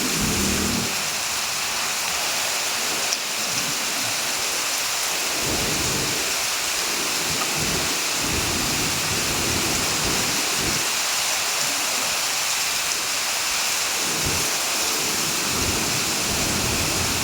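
Heavy rain falling steadily, a dense even hiss, with low rumbles that come and go every few seconds.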